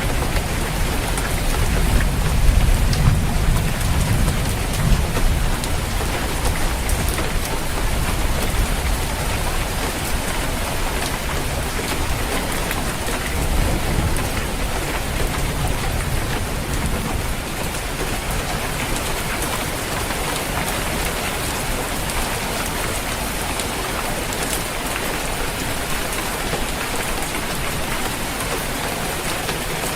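Steady rain falling on a roof, a dense even patter, with low rolling thunder rumbling in the first few seconds and again briefly around the middle.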